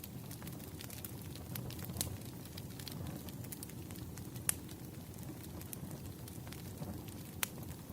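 Wood campfire burning: a steady low rumble of flames with irregular sharp crackles and pops, one louder pop about halfway through and another near the end.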